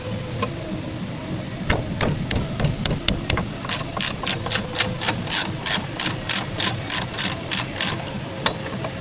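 Hammer striking metal: a few scattered blows, then a steady run of about four sharp blows a second lasting some four seconds.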